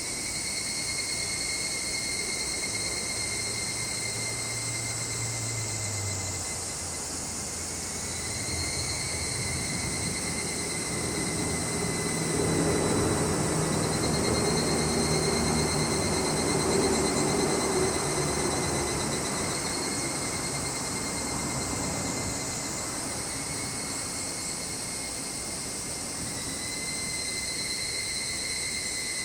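A steady chorus of summer insects, cicadas and crickets, with a passing engine swelling and fading under it in the middle: a low hum that is loudest a little under halfway through.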